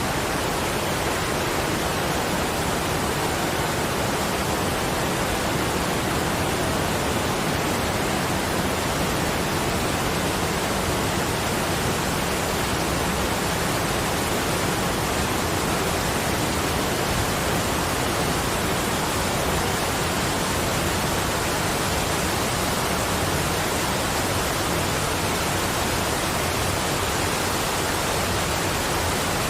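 Steady, even hiss of falling water, with no separate drops, splashes or tones.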